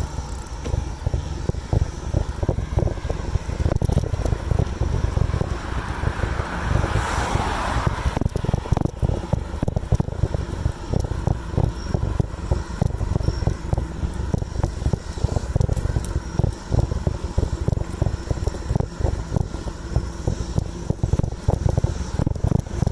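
Wind buffeting the microphone and road rumble from a moving bicycle, with a passing car's whoosh swelling and fading about seven seconds in.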